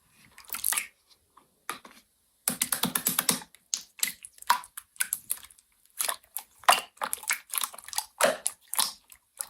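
Slime being squeezed and pressed by hand, giving an irregular run of sticky clicks and crackling pops, with a short pause about two seconds in.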